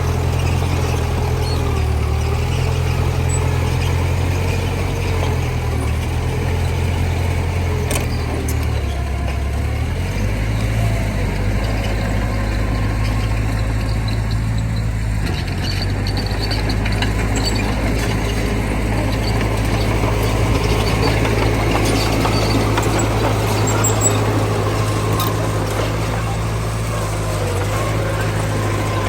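Heavy diesel earthmoving machinery running steadily under load, its engine note shifting about ten seconds in.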